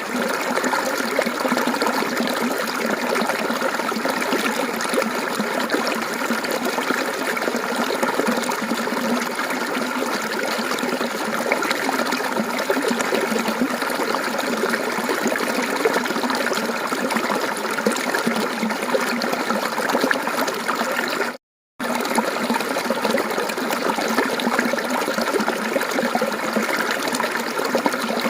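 Mountain stream water flowing and babbling steadily. The sound drops out completely for a split second about three quarters of the way through.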